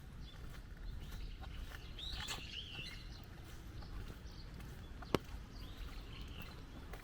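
Birds chirping outdoors: a short run of calls about two seconds in and another near six seconds, over a steady low background and soft footsteps on wet pavement. A single sharp click about five seconds in.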